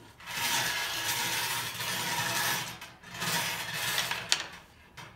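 Numbered draw balls rattling and tumbling together as they are mixed in their container, in two long spells, with a sharp click near the end.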